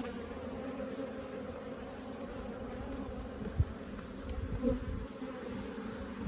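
Honeybees buzzing in a steady hum around an open hive. The colony is agitated and turning defensive. A single sharp knock comes about three and a half seconds in.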